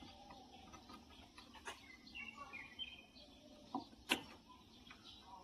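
A few small sharp clicks, the loudest about four seconds in, as the latched compressor wire connectors are unclipped and pulled off an inverter air conditioner's outdoor unit. Birds chirp faintly in the background.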